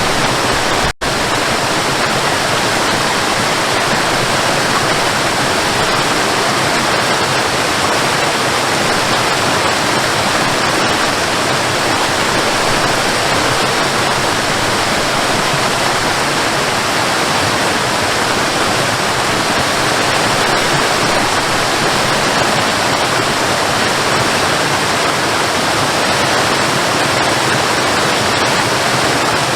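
Waterfall: a steady, loud rush of falling water, with a split-second dropout about a second in.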